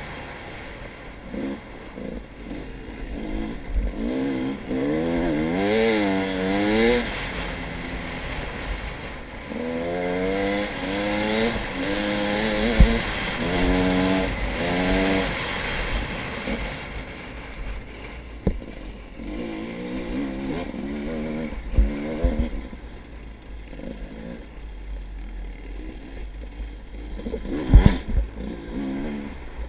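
A vehicle engine running, its pitch wavering up and down in repeated surges, with occasional knocks and rattles.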